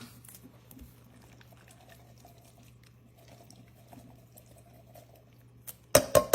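Canned sweet corn and its liquid going softly into a crock pot, faint against a low steady hum. Near the end comes a quick run of several sharp knocks.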